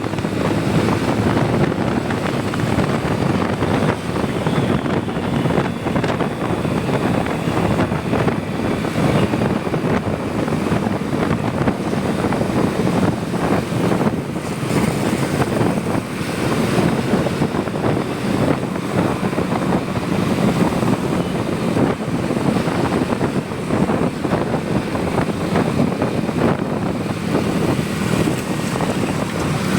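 Motorcycle running steadily at cruising speed, its engine hum mixed with a constant rush of wind across the microphone.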